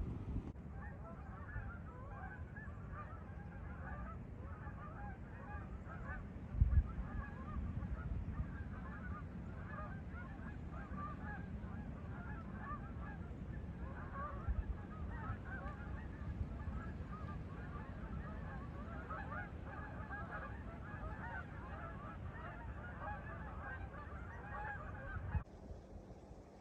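A large flock of geese honking, many overlapping calls, with wind rumble on the microphone underneath. There is one thump about seven seconds in, and the sound cuts off abruptly near the end.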